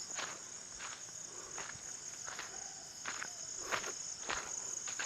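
Insects chirring steadily in a high band, over footsteps on the forest floor falling about every 0.7 seconds as someone walks.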